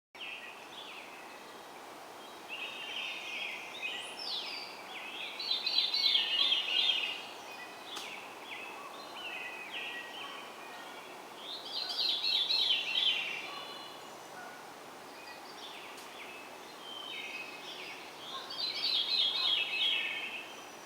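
A songbird singing three long, rapid, chattering song phrases a few seconds apart, over a steady faint background hiss.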